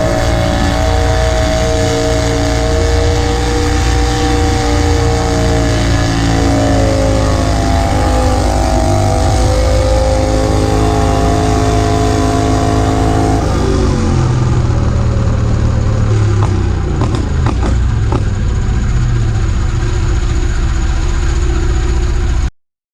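Modified garden pulling tractor's engine running hard at high revs under load, its pitch wavering as it pulls. About 13 seconds in the revs drop sharply and it runs on at a lower pitch with a few sharp knocks, then the sound cuts off suddenly near the end.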